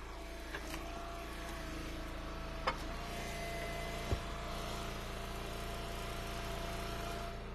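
Engine of a hydraulic wood splitter running steadily, with a thin steady whine that cuts off near the end. Two sharp knocks about three and four seconds in.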